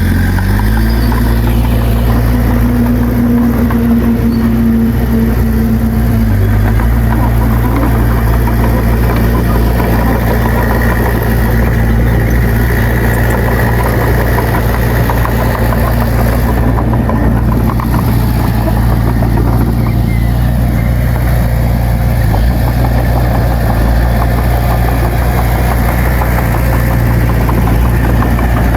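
Heavy diesel engine of earthmoving machinery running steadily and loud. Its pitch dips briefly and comes back up right at the start, as it takes and sheds load.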